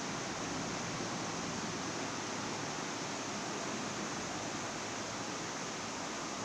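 Steady, even background hiss with no other distinct sound.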